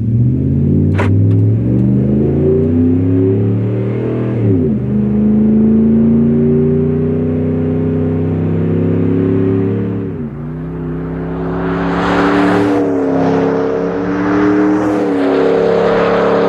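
A Ram 1500's 5.7-litre Hemi V8 running through a Flowmaster FlowFX cat-back exhaust with a straight-through muffler, accelerating through the gears. The pitch climbs, drops at an upshift about four and a half seconds in, climbs again and drops at a second upshift about ten seconds in, then holds fairly steady. A rushing noise builds over the last few seconds, and there is a sharp click about a second in.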